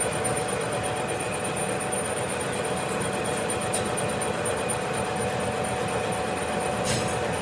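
Metal-working machine tool running steadily, a constant hum with a few steady tones over a grinding noise.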